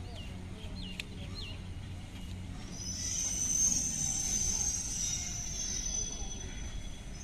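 MEMU electric multiple-unit train approaching at low speed over a steady low rumble; from about three seconds in, its wheels set up a high-pitched squeal that holds on to the end. A few short bird chirps come in the first second or so.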